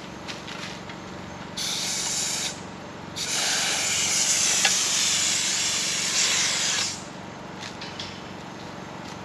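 Compressed air hissing from a pneumatic T-post driver in two bursts, a short one and then one of nearly four seconds, with a generator running steadily underneath.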